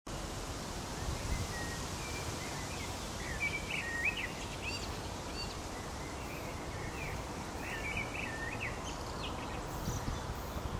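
A songbird singing two runs of quick chirping phrases, over a steady low rumble.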